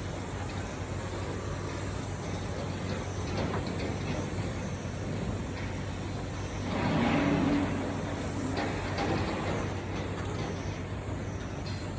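Swimming-pool heat pump running, a steady low hum under a constant rush of fan and compressor noise, with a louder surge lasting about a second around the middle.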